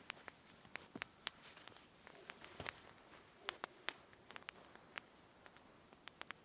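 Scattered sharp clicks and taps at irregular intervals over a faint, steady hiss.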